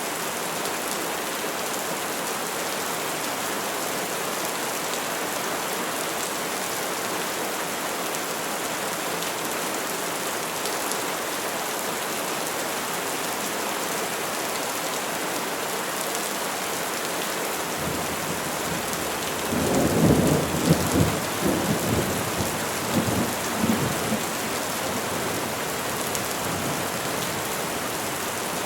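Steady rain falling on trees, with a roll of thunder rumbling in about two-thirds of the way through and rolling on for several seconds with a few louder peaks.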